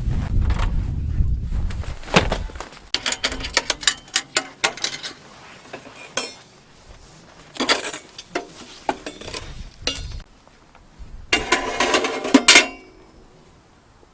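Irregular clinking and clattering of hard metal gear being handled, in several bursts, the last with a short ring. Wind rumbles at the start and drops away after about two seconds.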